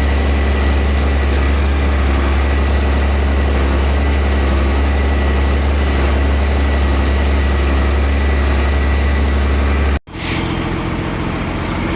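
TMR feed mixer running with its drive engine, a steady loud drone with a strong low hum and a faint high whine as it blends a wet ration. About ten seconds in the sound cuts off abruptly and a quieter machine hum comes back.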